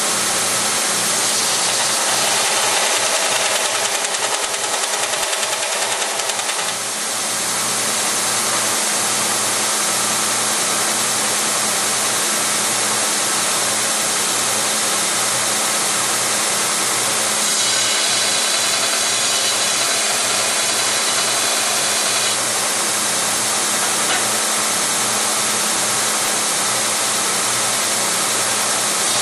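Grinder running steadily with a constant hum while grinding titanium for a spark test. The grinding noise shifts a little about 7 seconds in and again for a few seconds in the middle as the metal works against the wheel.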